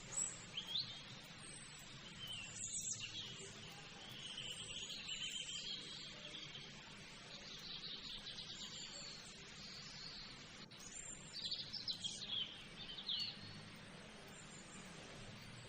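Birds chirping and calling in short bursts over a steady low background hum, busiest near the start and again about twelve seconds in.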